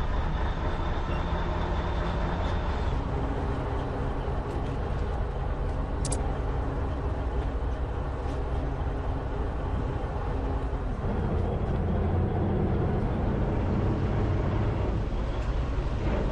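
Fishing boat's engine drones steadily while the boat runs underway, with rushing water and wind noise over it. Its tone shifts slightly about eleven seconds in.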